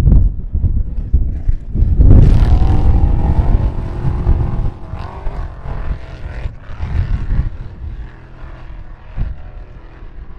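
A motor vehicle's engine passing by: it comes in loudly about two seconds in and fades away over several seconds. Wind buffets the microphone throughout.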